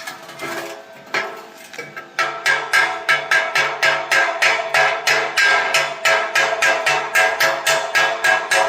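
Chipping hammer knocking welding slag off a fresh bead on thin 2 mm steel box profile. A few light taps, then from about two seconds in rapid even strikes, three to four a second, with the hollow tube ringing.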